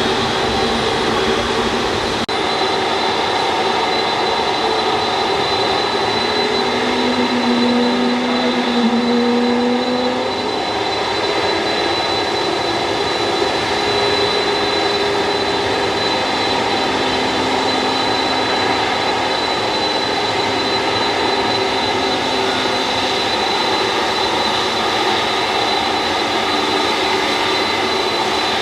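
Jet airliner's engines running steadily with a constant high whine, and lower tones that shift in pitch now and then.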